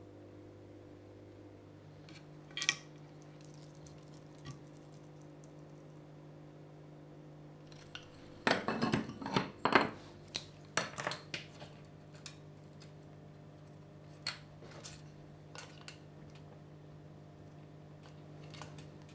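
Scattered light clicks and knocks of small hard objects, with a quick cluster of clattering knocks about halfway through, over a steady low hum.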